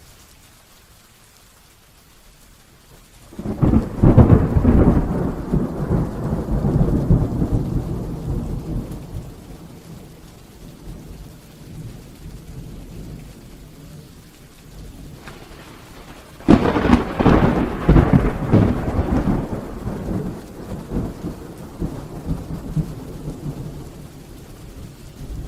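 Heavy rain with two claps of thunder, one about three seconds in and another about sixteen seconds in. Each starts suddenly and crackles, then rolls off into a rumble over several seconds.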